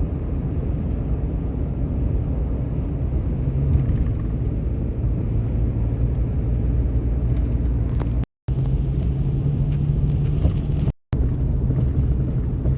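Steady low road and engine drone inside a truck's cab while driving. It cuts out completely for a moment twice, after about eight and about eleven seconds.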